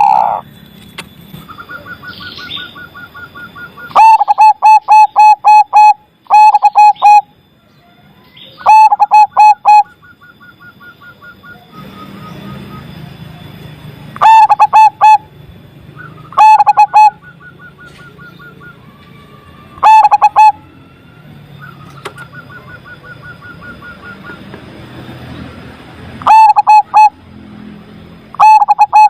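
Zebra dove (perkutut) cooing: about eight loud bursts of rapid, evenly pulsed coos, each one to two seconds long. Softer, higher pulsed trills sound in the gaps between them.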